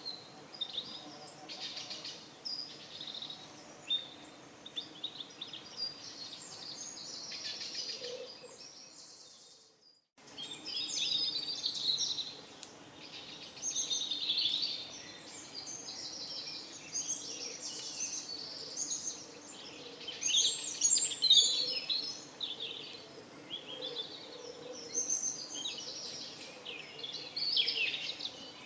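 Small birds chirping and twittering in a dense, overlapping chorus, over a faint steady background hum. The sound dips briefly to near silence about ten seconds in, then the chorus resumes.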